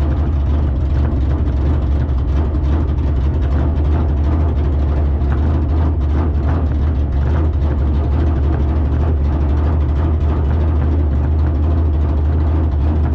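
A car engine running steadily with a deep, even rumble, holding one speed with no revving up or down.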